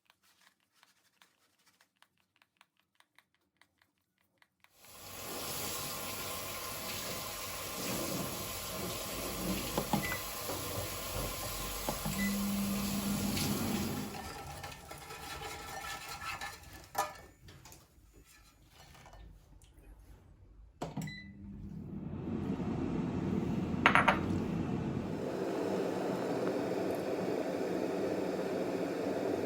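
Kitchen sounds: water running from a tap for several seconds, then dishes and utensils knocking and clinking, with water running again near the end.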